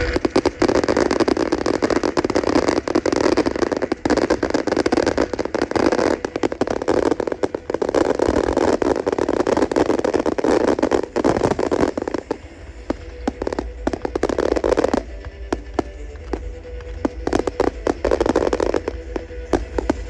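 Fireworks display: a dense, rapid crackle of many bangs going off together, thinning after about fifteen seconds to scattered separate bangs.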